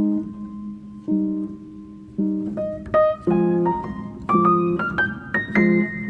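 Background piano music: low chords struck about once a second under a melody that climbs higher in the second half.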